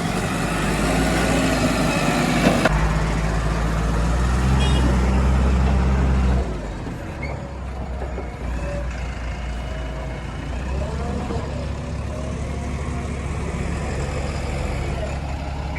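Heavy diesel machinery engine running, working harder and louder from about three to six seconds in, then dropping back to a lower, steady run.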